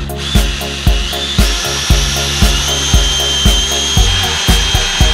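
Electric drill motor whining at a high, steady pitch that steps up about a second and a half in as the trigger is squeezed harder, over background music with a steady beat.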